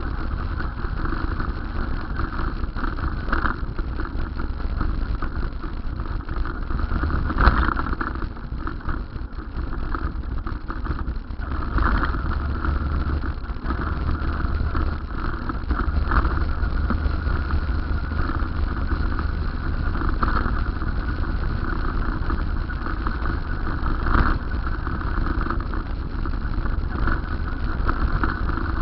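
Steady vehicle and road noise with a heavy low rumble, with a brief louder burst about seven and a half seconds in.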